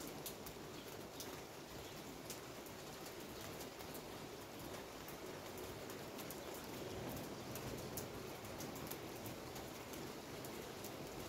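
Steady rain: an even hiss with many short, sharp ticks of drops landing close by.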